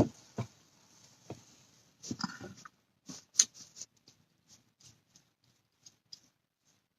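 Scattered small clicks and taps, irregular, with a short cluster about two seconds in and another about three seconds in, then only faint sparse ticks.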